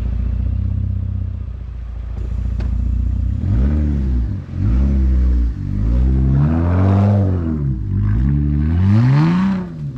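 Jeep Gladiator exhaust with all three mufflers removed and only a resonated tip, idling steadily and then revved in a series of throttle blips, one held longer in the middle, before dropping back toward idle near the end.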